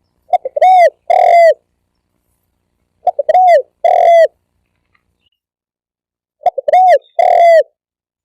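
Spotted dove cooing: three call phrases about three seconds apart, each a couple of quick short notes followed by two longer coos.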